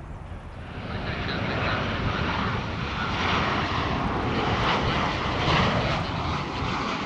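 Airliner engines on approach to land, their noise swelling about a second in and staying loud as the aircraft passes.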